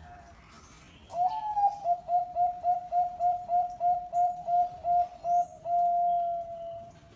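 Zebra dove (perkutut) cooing: a rapid run of short even coos, about four a second, ending in one long held coo.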